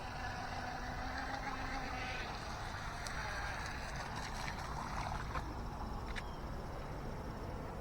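Faint, steady whine of an RC racing outrigger's brushless electric motor at a distance as the boat is driven back in at part throttle, over a steady low rumble.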